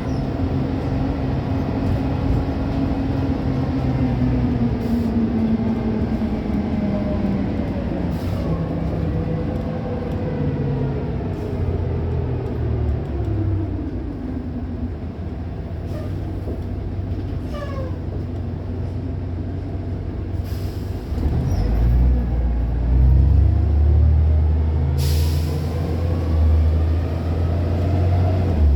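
Van Hool AG280 bus running on a ride, its engine note falling as it slows, then pulling louder and deeper as it accelerates away about three quarters of the way through. A short burst of hissing air about 25 seconds in.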